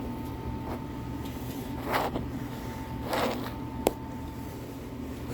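Steady low machine hum with a thin constant tone over it. Two short scraping swishes come about two and three seconds in, and a sharp click follows just before the fourth second.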